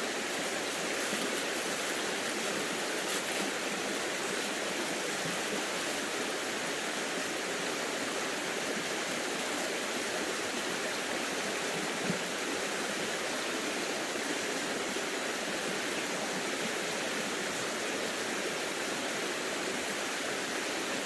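Steady rushing of a stream, even and unbroken, with one small knock about halfway through.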